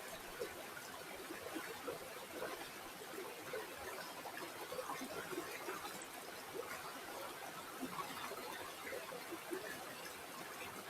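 Water flowing and trickling over stones in a small stream, a steady babble of many small splashes.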